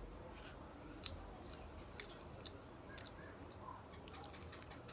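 Soft, wet mouth clicks and smacks of someone chewing boiled sweet potato, spaced about half a second apart, with a quicker run of small clicks near the end.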